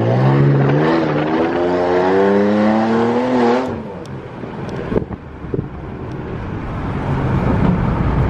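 Car accelerating hard away. Its engine note climbs, dips once about a second and a half in as it shifts gear, climbs again, then drops off about four seconds in. A couple of short knocks follow, and a low engine rumble builds near the end.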